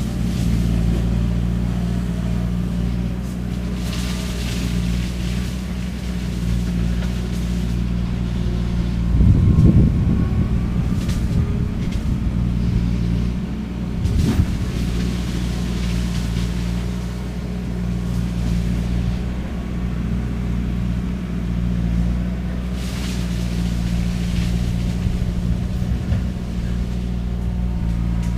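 Skid steer engine running steadily under load while its shredder head works through cane, with a louder, rougher surge about nine seconds in and a shorter one about fourteen seconds in.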